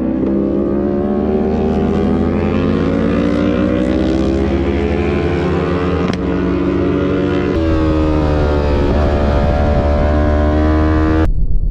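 Motorcycle engine running, its pitch climbing slowly over the first six seconds. After a break about seven and a half seconds in it holds a steadier note as the Yamaha R3's parallel twin is ridden on track, and it cuts off abruptly near the end.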